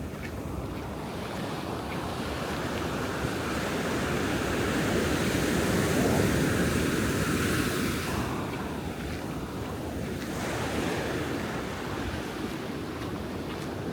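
Ocean surf breaking on a beach: the wash swells to its loudest about six seconds in and falls away a couple of seconds later, then a smaller wave follows.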